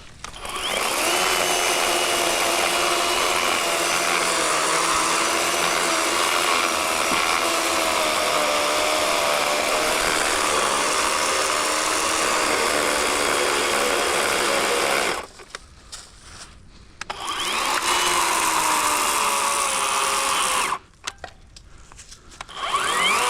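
Worx 40-volt electric chainsaw with an 18-inch Oregon bar cutting through a fallen log, its motor whining steadily for about fourteen seconds and sagging slightly in pitch under load. It then stops, runs again for a few seconds, stops, and starts once more near the end. The battery is almost dead.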